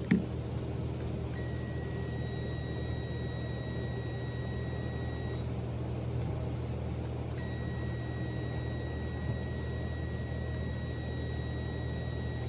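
A power probe's steady high-pitched tone, held for about four seconds, stopping, then coming back about two seconds later: the probe signalling that there is power at the starter circuit connector. A sharp click comes just at the start, over a steady low hum.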